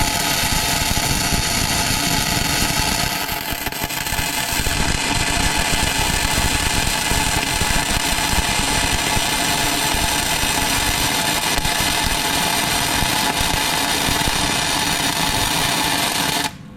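A metalworking tool running steadily on steel, a loud, harsh, crackling noise that dips briefly about three seconds in and cuts off abruptly near the end.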